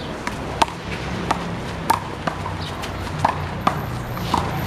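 A handball rally with the big blue ball: about seven sharp smacks, some half a second apart and some a second apart, as the ball is struck by hand and slaps off the wall and the pavement.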